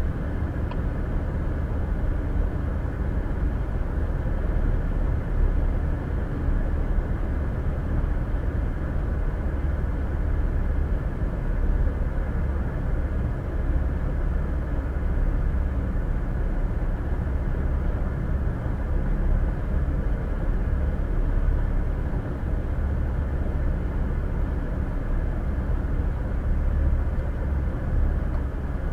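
Steady road noise of a car driving at highway speed, heard from inside the cabin: a low rumble of tyres and engine.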